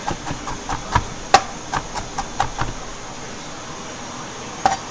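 Kitchen knife chopping on a cutting board while mincing garlic: a quick, uneven run of blade strikes for about three seconds, a pause, then a couple more strikes near the end.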